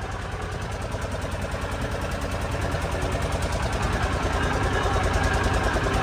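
Motorboat engine running with a fast, even pulse, growing steadily louder.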